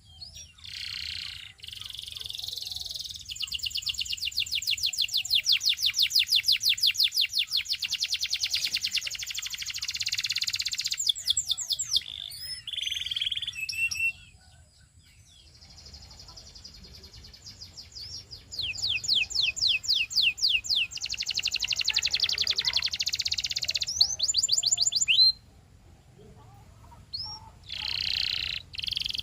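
Domestic canary singing long, fast trills of rapidly repeated high notes in several phrases, with short pauses between them. The song breaks off briefly about halfway through and again near the end.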